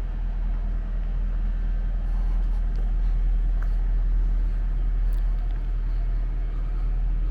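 Steady low rumble of a running motor vehicle engine, with an even hum.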